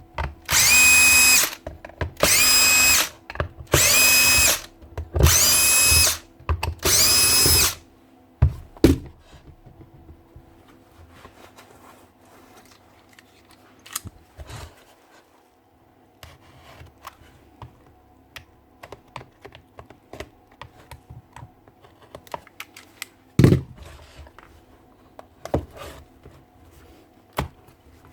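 A cordless drill motor is run in five short bursts of about a second each, spinning up to a steady whine each time. After that come scattered small clicks and knocks of tools and parts being handled, with one louder knock about 23 seconds in.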